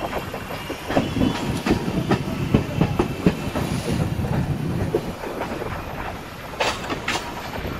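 Passenger train coach running along the track, heard from its open doorway: a steady rumble of wheels on rail with irregular clicks and knocks over rail joints.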